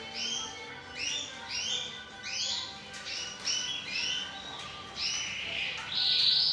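Domestic canary singing: a run of short, high chirping notes repeated about two to three times a second, with a louder, harsher note near the end.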